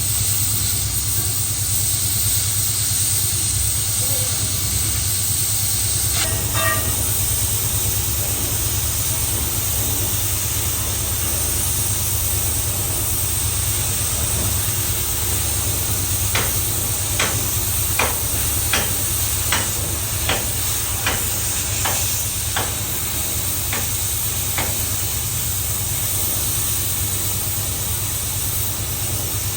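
Heavy boring machine running steadily on a steel pipe, with a constant hiss over a low hum. Midway comes a run of about a dozen sharp metallic clicks, roughly evenly spaced.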